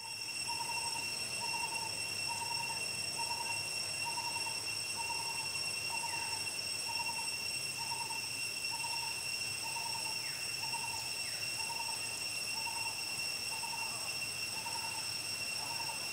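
A bird calling one short hollow note over and over, very evenly, about one and a half notes a second, over a steady high-pitched whine, with a few brief falling chirps.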